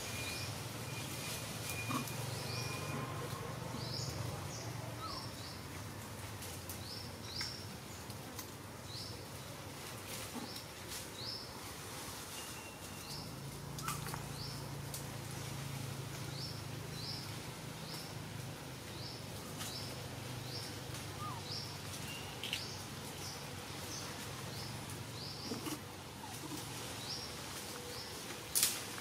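A small bird repeatedly gives short, high chirps that rise in pitch, often in quick pairs, over a low steady hum. There are a few faint ticks and one sharp click near the end.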